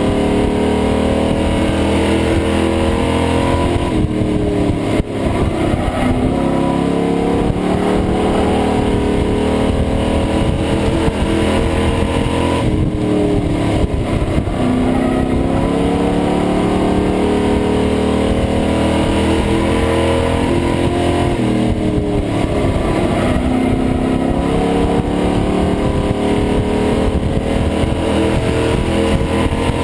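Race truck engine heard from inside the cab. It revs up and eases off in a repeating cycle about every nine seconds as the truck laps the oval.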